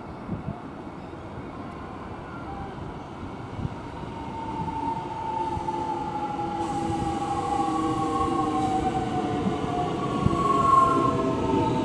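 X'Trapolis electric suburban train coming in, its rumble building from about four seconds in, with several tones of traction-motor whine that fall slowly in pitch as the train slows.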